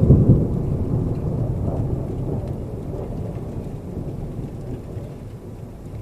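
Rolling thunder, a deep rumble that is loudest at the start and slowly dies away, over steady rainfall.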